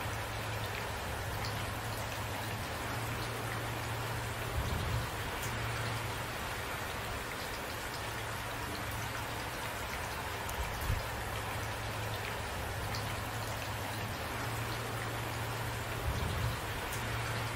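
Steady rain falling, with individual drops ticking.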